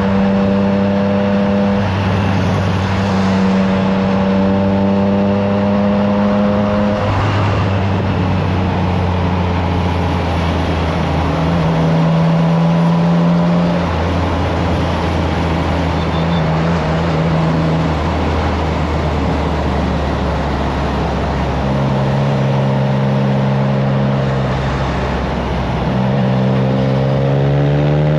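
Triumph Trident 660's inline three-cylinder engine running through a FireTong aftermarket exhaust while being ridden. The engine note holds steady and shifts up or down in steps every few seconds, and the revs rise near the end, with wind rushing on the microphone throughout.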